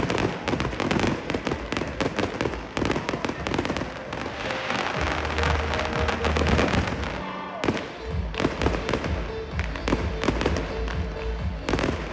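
Fireworks display going off: many bangs and crackles from bursting aerial fireworks in quick succession, with music playing alongside.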